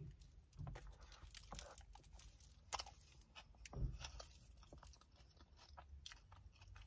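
Faint sounds of biting into and chewing a toasted meatball marinara sub, with irregular small clicks from the mouth and the toasted bread.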